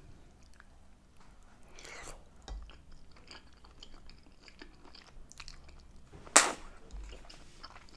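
Close-up mouth sounds of a person chewing food: small wet clicks and smacks, with one sharp, much louder click a little past six seconds in.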